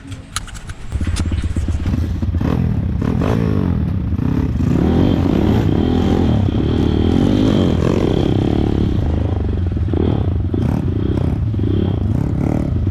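Small single-cylinder four-stroke pit bike engine running and revving up and down as the bike is ridden, starting about a second in, with scattered knocks and rattles.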